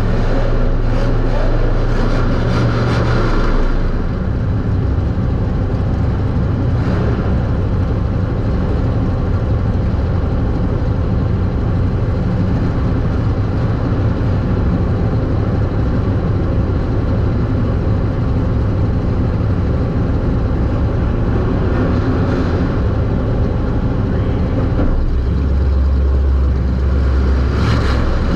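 Super stock race car's engine running hard at racing speed, heard from inside the car as a loud, continuous drone. Near the end the note drops lower for a few seconds.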